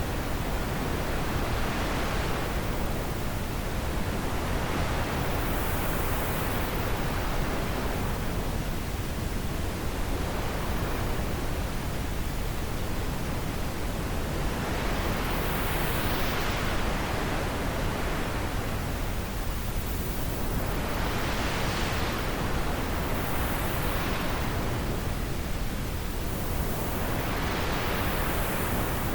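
Wind blowing steadily, swelling and easing in gusts every few seconds.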